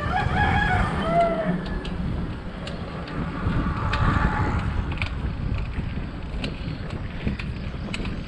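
Wind buffeting the microphone of a handheld camera on a moving bicycle, a steady low rumble. A short pitched sound that bends down in pitch comes in the first second and a half.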